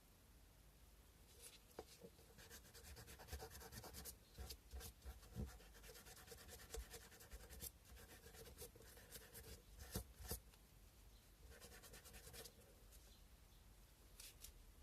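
Sandpaper rubbed by hand on a cow-bone carving: faint, scratchy rubbing strokes with a few light clicks for most of the first ten seconds, then a short spell of rubbing about twelve seconds in.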